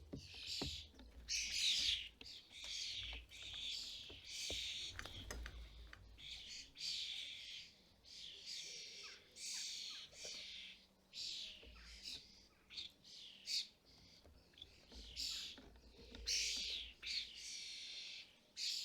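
Common starlings calling over and over, harsh rasping calls about one or two a second, typical of fledglings begging for food at a feeder. A faint low rumble runs underneath.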